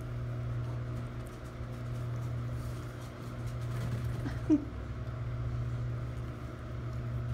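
Steady low hum with a single short, rising squeak from a pet monkey about four and a half seconds in.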